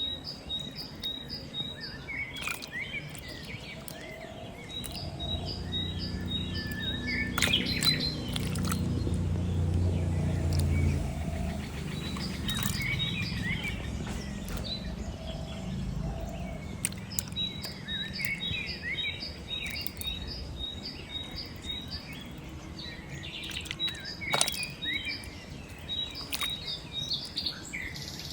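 Birds chirping and calling, one repeating a quick, even series of short high chirps. A low rumble swells in the middle for several seconds, and there are a few sharp clicks.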